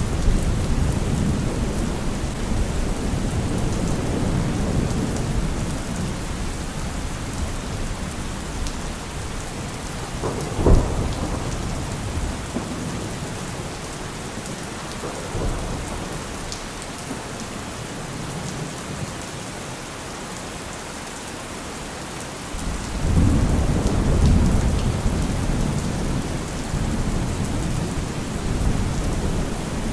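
Steady rain with rolling thunder. A sharp thunder crack comes about a third of the way in, and a heavy rumble swells up about three-quarters of the way through.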